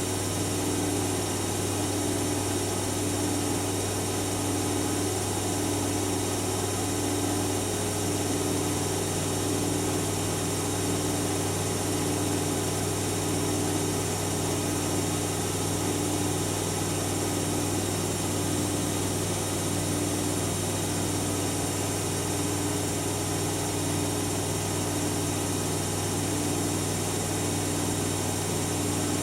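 Siemens Siwamat iQ 716 washing machine running: a steady motor hum with a tone that pulses about once every second and a half.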